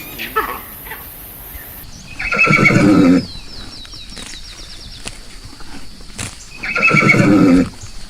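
Horse whinnying twice, each call about a second long and about four seconds apart.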